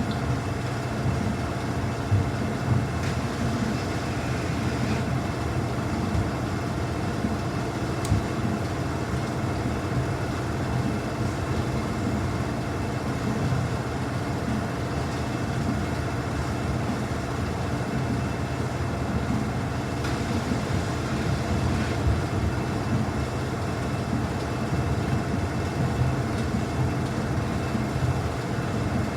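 Samsung washing machine in its spin cycle, spinning a load of towels at up to 1200 rpm: a steady rumble with a faint steady whine over it.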